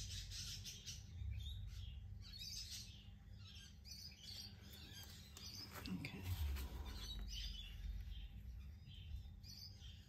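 Birds chirping faintly in the background, many short calls scattered throughout, over a low steady rumble.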